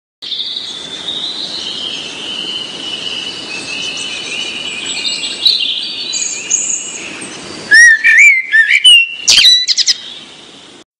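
Birds chirping in a busy chorus, like a garden birdsong sound effect; from about eight seconds in a few loud, close chirps with rising and falling whistles stand out, then it fades out.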